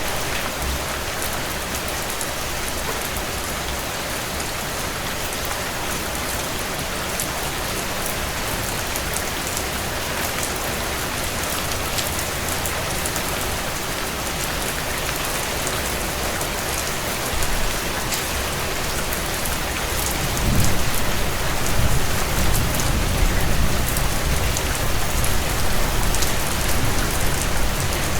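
Heavy rain falling on a tin roof: a steady hiss with scattered sharp drop taps. A low rumble joins about two-thirds of the way through and carries on.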